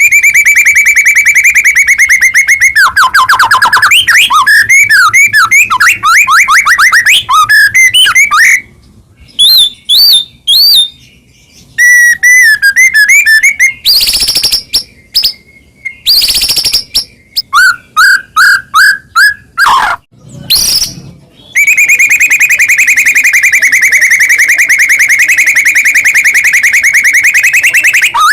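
White-rumped shama (murai batu) in full song. It opens with a fast trill, moves into varied sliding whistled phrases broken by two loud harsh notes and a run of short repeated notes, then ends on another long fast trill.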